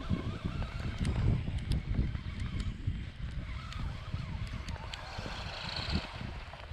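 The 390-size electric motor of a remote-control truck whining as it drives through snow, rising briefly in pitch about five seconds in, with wind buffeting the microphone.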